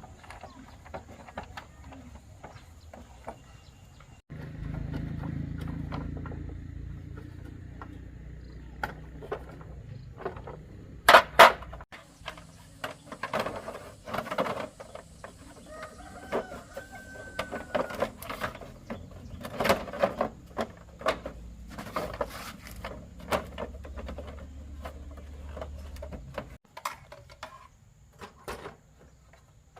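Chickens clucking amid scattered sharp clicks and knocks, the loudest a pair of knocks about a third of the way in, over a low steady hum that starts and stops abruptly several times.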